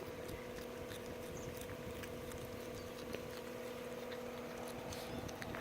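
Young opossum foraging: faint scattered clicks and rustles of it digging and handling food, over a steady low hum.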